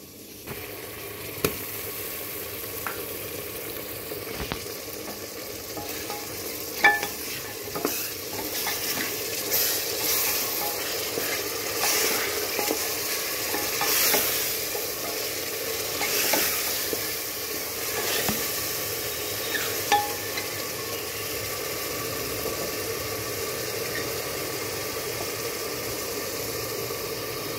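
Mutton, spices and garlic-onion paste frying in hot mustard oil in a metal pan, sizzling steadily, while a wooden spoon stirs and scrapes against the pan with an occasional sharp knock.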